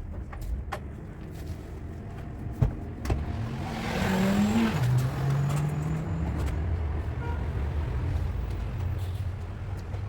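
A car engine revs up briefly, drops back and runs on with a steady low hum, with scattered sharp taps and knocks around it.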